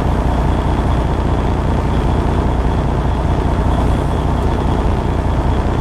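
Steady low drone of a truck's engine running, unchanging throughout.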